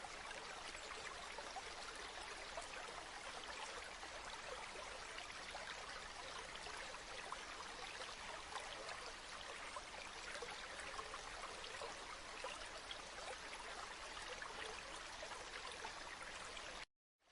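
River water flowing steadily: an even rush with fine splashing detail. It cuts off abruptly to silence near the end.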